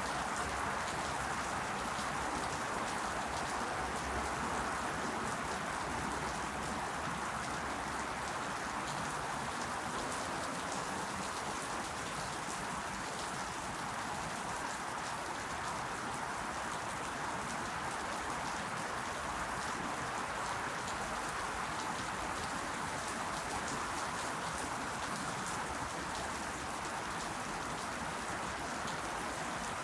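Steady rain falling: an even hiss with fine scattered drop ticks.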